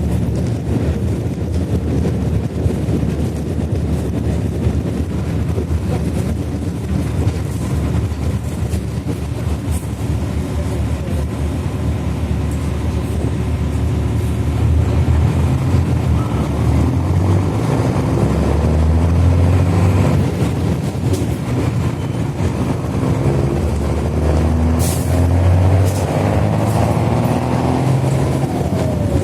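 Mercedes-Benz OH-1420 city bus's diesel engine with a free-flow exhaust, heard from the rear seats, running hard. Over the second half it revs up repeatedly, its pitch rising with each pull, and there are a few short hisses near the end.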